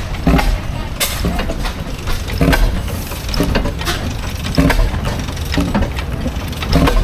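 Antique engine running slowly with mechanical clatter and a low thump that comes roughly once a second.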